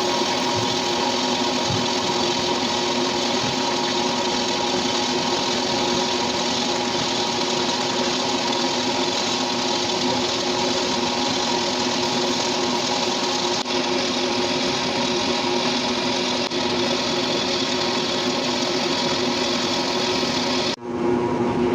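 Metal lathe running steadily while machining a belt pulley, a constant mechanical hum with a short break near the end.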